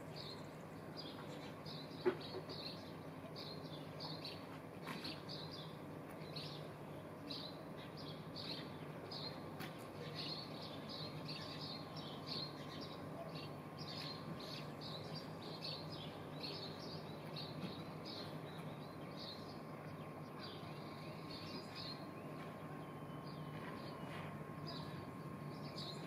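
Small birds chirping: a steady run of short, high chirps, about two a second, over a low steady hum, with a single sharp click about two seconds in.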